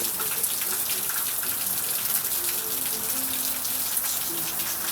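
Rain falling steadily: a dense, even hiss full of many separate drop hits.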